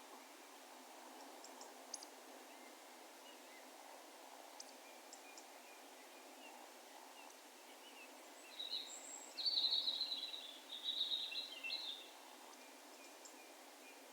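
A distant songbird sings one short phrase of quick, high, trilled notes from about 8.5 to 12 seconds in, over a steady, faint rural background hiss. A few faint high chips or ticks come early on.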